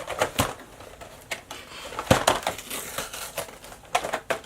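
Toy packaging being handled and opened by hand: a run of clicks, knocks and crackling from cardboard and plastic, busiest about two seconds in.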